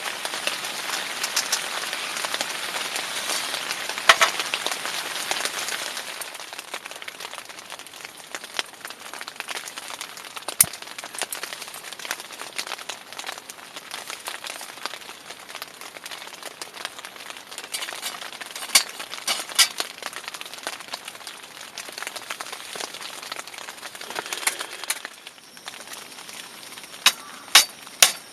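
Rain falling steadily, with scattered sharper drop impacts; heavier for the first six seconds or so, then lighter.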